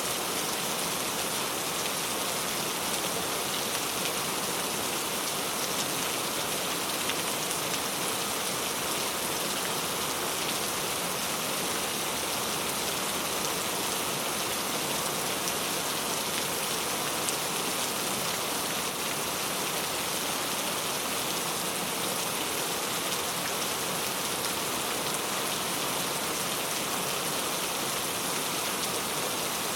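Steady rain falling, an even hiss of drops with no let-up or change.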